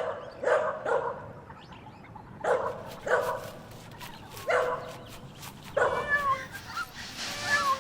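Puppies barking in short, separate barks, then high-pitched whimpering and yelping cries near the end.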